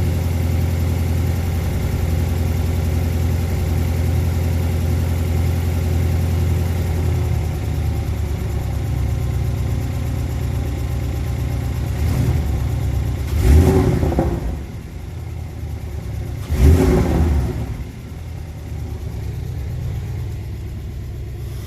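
Porsche 718 Boxster S's turbocharged flat-four idling on a cold start with its exhaust in Sport mode. The idle steps down about seven seconds in, then the engine is blipped twice, sharply rising and falling each time, before settling back to a steady idle.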